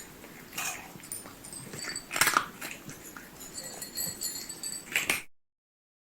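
A few short animal calls, the loudest about two seconds in, with the sound cutting off abruptly near the end.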